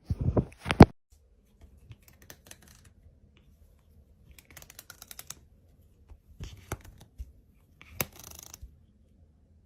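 Two or three sharp knocks in the first second, then short clusters of light clicks and taps every second or two.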